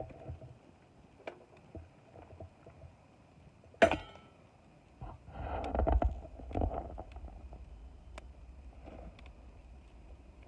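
Wood fire crackling, with scattered sharp pops. About four seconds in there is one loud knock with a brief ring, followed by a couple of seconds of low rumbling.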